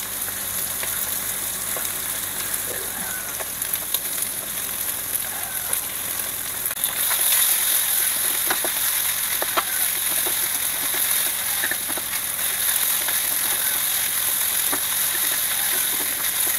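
Fried rice with tiwul, sausage and egg sizzling in butter in a nonstick wok, with a spatula scraping and tapping the pan. The sizzle gets louder about seven seconds in, as the white rice goes into the hot wok.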